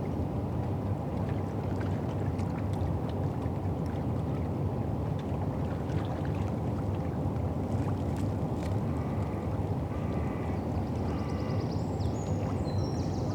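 River foreshore ambience on the Thames: a steady low rumble with water washing, and scattered small clicks. Short high calls come in a few times over the last few seconds.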